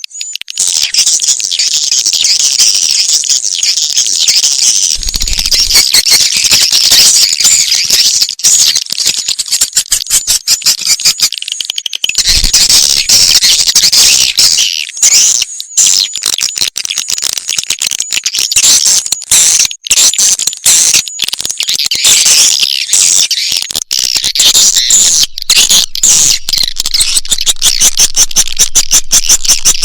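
Recorded swiftlet calls played as a lure sound for swiftlet farming: a loud, dense, continuous chatter of high chirps and rapid clicking twitters from many birds at once.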